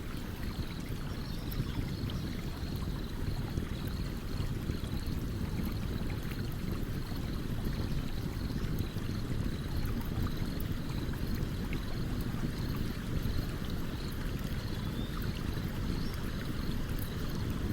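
Stream water flowing steadily, with faint scattered crackles from a campfire burning beside it.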